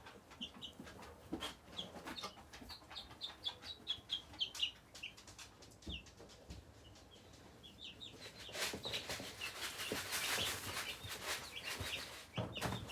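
Baby chicks and ducklings peeping, a quick string of short, high chirps that thins out about halfway through. From about eight seconds in, a rustling, scratching noise rises over the peeps.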